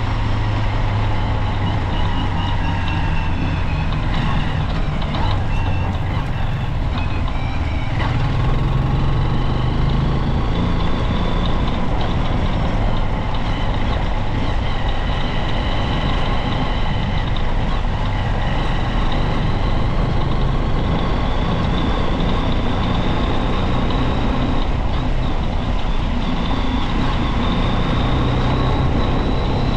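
Junak Vintage motorcycle engine running under way, its note rising and falling with the throttle over a dense steady rush of noise.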